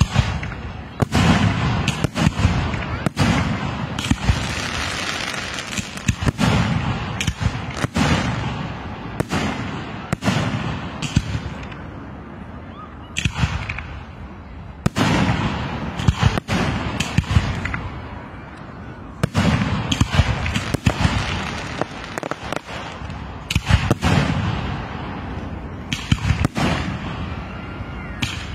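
Aerial fireworks bursting overhead: a long run of sharp bangs, often more than one a second, over a steady crackling hiss, easing off for a few seconds twice around the middle.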